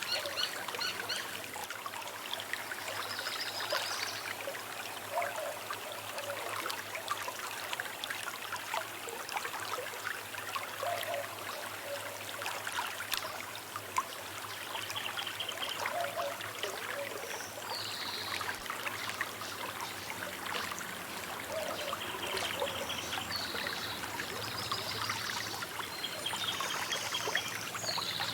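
Small river flowing and trickling steadily over stones, with birds calling every few seconds over the water.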